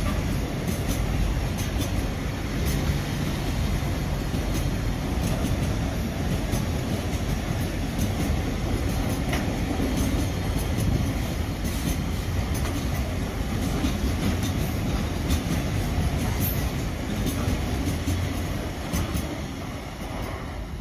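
Container wagons of a freight train rolling past on the rails: a steady rumble with repeated sharp wheel clicks, easing off near the end as the last wagons pass.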